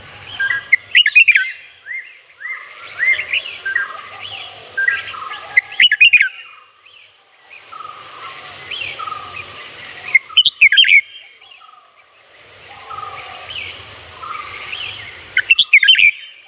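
Red-whiskered bulbul calling: a loud burst of quick, bubbling notes about every five seconds, with softer chirps between them, over a steady high hiss.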